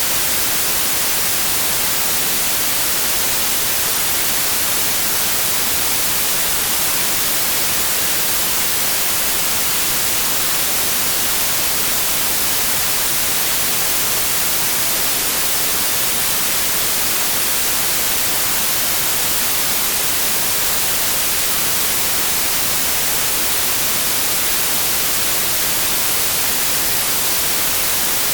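Synthetic white noise: a steady, unchanging hiss spread evenly across all pitches, brightest in the highs.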